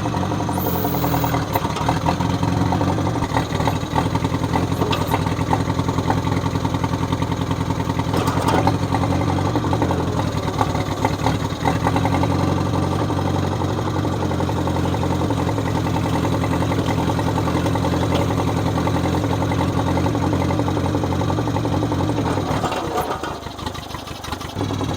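John Deere 1010 tractor's carbureted four-cylinder engine running steadily, with a few sharp clicks. Near the end the engine note drops briefly, then picks back up.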